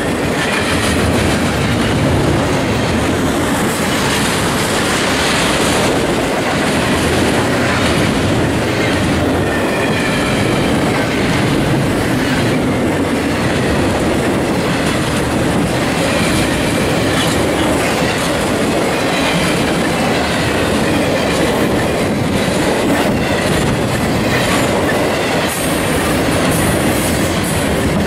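Railroad cars rolling steadily past close by, with the noise of wheels on the rails and a faint high wheel squeal partway through.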